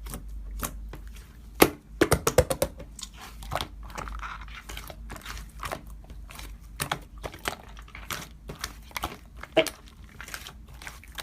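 Slime being pressed and worked by hand, making irregular crackly clicks and pops.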